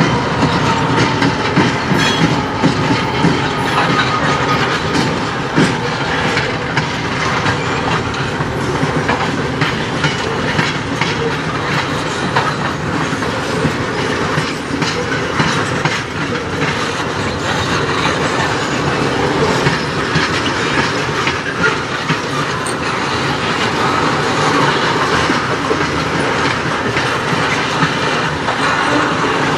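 Freight train of tank cars rolling steadily past, steel wheels clicking and clattering over the rail joints.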